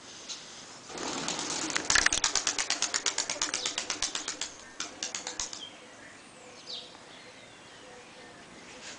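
Takla tumbler pigeon wings flapping hard: a rapid run of sharp wing claps, about ten a second, starting about a second in and fading away over some four seconds.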